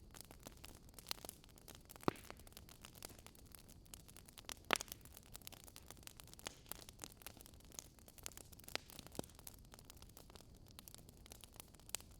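Faint crackling of a wood fire: irregular sharp pops and snaps over a low hiss, the loudest about two seconds in and near the five-second mark.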